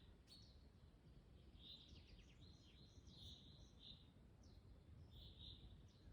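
Faint bird calls in a forest: a series of short, high chirps and quick downward notes coming every half second or so, over a steady low rumble of wind.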